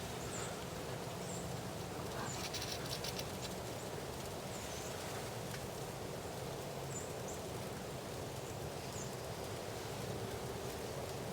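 Steady outdoor background hiss, with faint short high chirps from small birds several times and a brief rattling trill about two seconds in.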